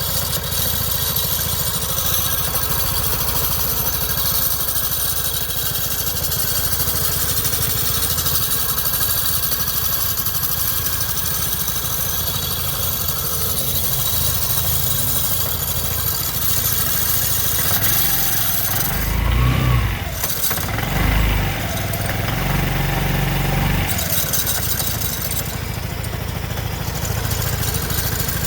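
2008 Vespa GTS 250 i.e. scooter's single-cylinder four-stroke engine running steadily with the grinding noise its owner is recording. It is revved briefly a few times about two-thirds of the way through, then settles back.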